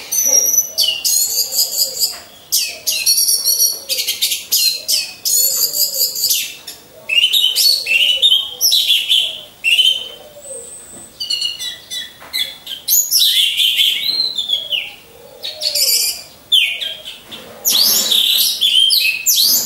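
Orange-headed thrushes singing: loud, rapid, varied phrases come one after another with short pauses between them. Under the song, a faint low hooting note repeats about once a second.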